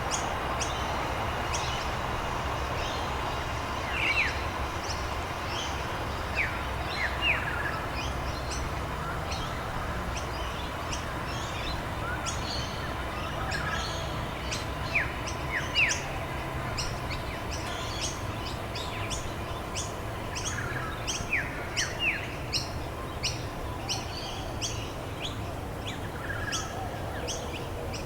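Wild birds chirping, many short, quick downward-sliding notes and high ticks scattered throughout, over a steady background wash of outdoor noise.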